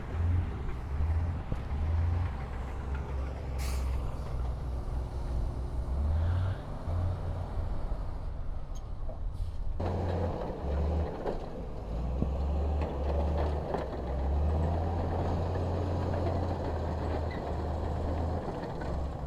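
Heavy diesel construction machinery engine running with a deep, uneven rumble, a brief sharp clank about four seconds in. About ten seconds in, the engine sound suddenly gets fuller and louder, as a machine works under load.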